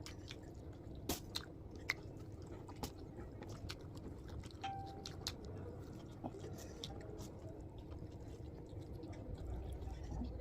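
Close-miked chewing: a person eating, with scattered wet mouth clicks and a few sharper bites, busiest in the first few seconds and sparser after.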